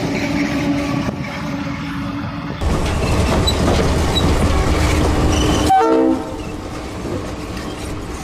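Diesel train running past with its wheels clattering over the rail joints. A short chord from a multi-chime locomotive air horn sounds about six seconds in. The sound changes abruptly twice, as if cut between separate recordings.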